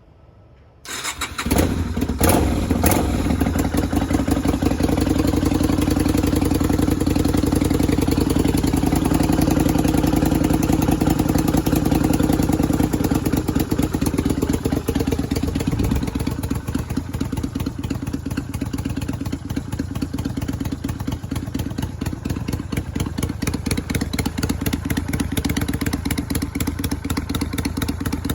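Yamaha Virago 250's air-cooled V-twin, fitted with a slash-cut exhaust muffler, starting about a second in and then idling with a steady pulsing exhaust note that eases slightly in the second half.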